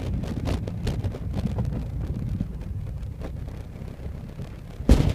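Exhaust and engine of a Nissan 350Z's 3.5-litre V6 heard from inside the cabin through a Tomei Expreme cat-back exhaust: a low, steady drone that gradually gets quieter. There is a loud thump near the end.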